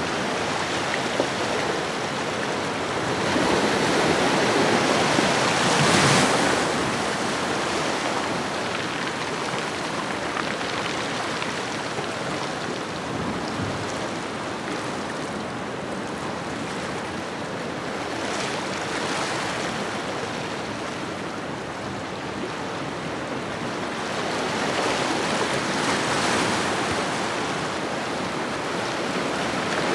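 Ocean waves washing onto a shore: a steady hiss of surf that swells as a wave breaks, with one crest about six seconds in and another about twenty-five seconds in.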